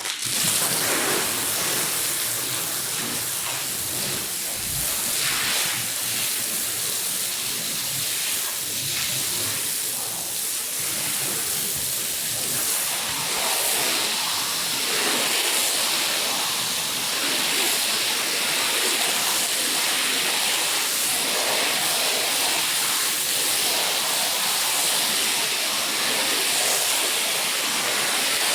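High-pressure water jet spraying onto a carpet: a steady loud hiss and rush that starts abruptly and keeps going with small swells.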